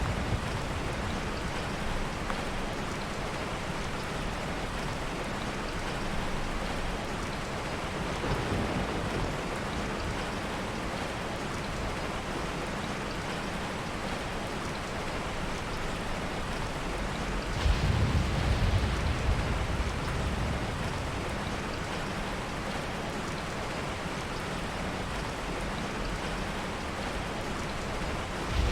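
Heavy rain falling steadily, with soft rolls of distant thunder underneath. A faint rumble comes about a third of the way in, and a stronger one about two-thirds in.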